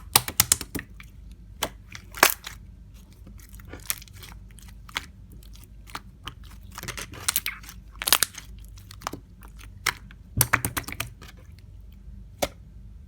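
Slime being squeezed and pressed by hand, giving irregular sharp pops and clicking crackles. The louder clusters come near the start, about eight seconds in, and about ten seconds in.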